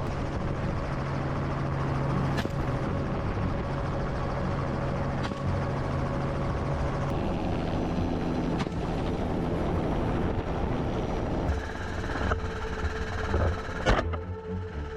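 Helicopter in flight, its rotor and engine running steadily, with a few short sharp clicks, the loudest near the end.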